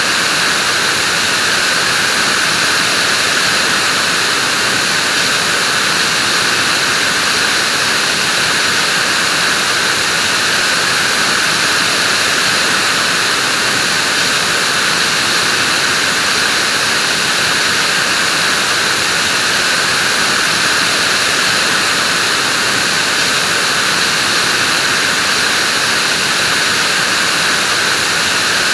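Vacuum cleaner running steadily: an even, unbroken rushing of air with a strong high hiss, never changing in speed or level.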